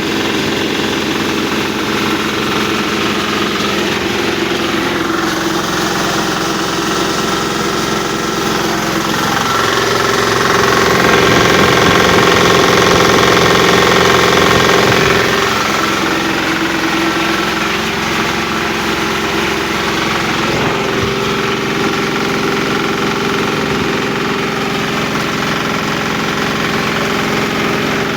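A 10 hp diesel engine running steadily, driving a posho (maize) mill. About ten seconds in it grows louder and brighter for roughly six seconds, then settles back to its earlier steady sound.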